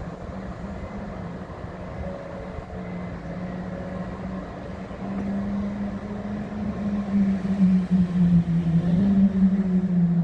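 A Shinkansen train running at the station with a low, steady hum, growing louder in the second half.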